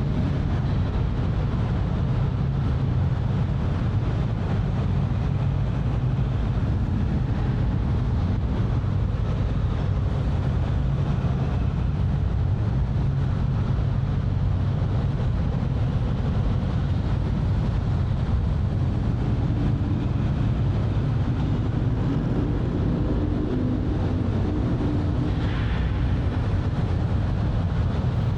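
Steady low rumble of a large car ferry's engines and machinery, unchanging throughout, with a brief higher hiss near the end.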